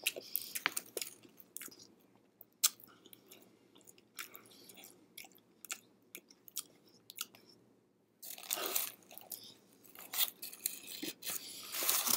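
Close-up chewing of a crusty baguette banh mi sandwich: wet mouth clicks and crackles of bread crust. The crunching gets louder twice in the last third.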